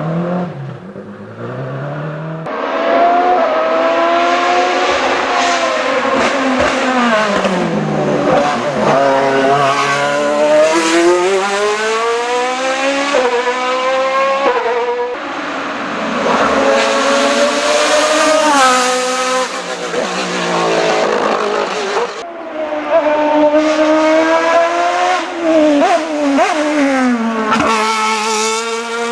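Race car engine at high revs on a hill-climb course, its pitch climbing under acceleration and dropping sharply at gear changes and lifts, over and over. The sound changes abruptly about two seconds in and again near the end, as one run gives way to another.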